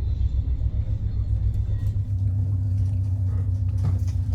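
Steady low engine rumble, as heard aboard a moving vehicle or vessel, with a steady hum joining about two seconds in.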